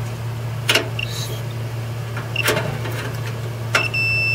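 A few clicks of multimeter probes touching metal terminals, then the meter's continuity beep, a steady high tone near the end, showing the dryer's heating element has continuity and is good. A steady low hum runs underneath.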